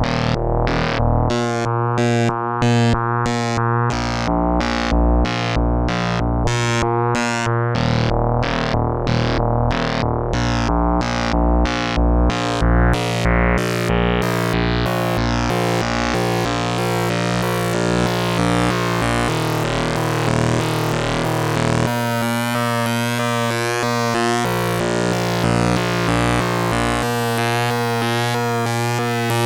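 Behringer 2600 analog synthesizer playing a patch: a steady low bass tone under a pulsing, gated pattern at about two pulses a second. About halfway through the sound opens into a bright, hissy wash, and held notes come and go over it.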